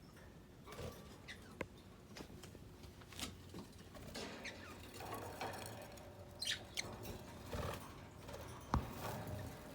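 Small caged pet birds giving scattered short chirps, with light scratching and pattering in the cage and a sharp tap near the end.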